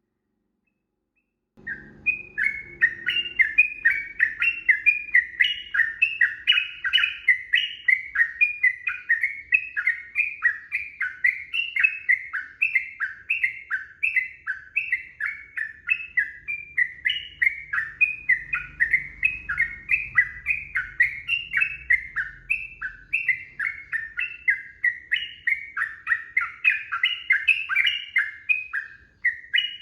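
Sooty-headed bulbul (trucukan) singing a long, unbroken run of short falling notes, about three a second. It starts after a second and a half of silence.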